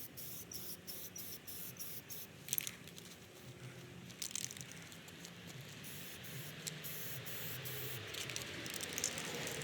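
Aerosol can of Rust-Oleum high performance wheel coating hissing as it sprays. It goes in short broken bursts at first, then runs steadier and a little louder from about four seconds in.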